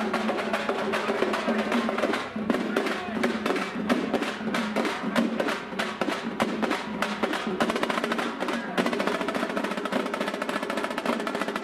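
Drums beaten in a fast, dense, steady rhythm.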